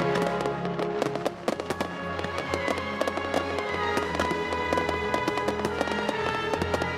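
Music with firework sound effects over it: many sharp pops and crackles from animated fireworks.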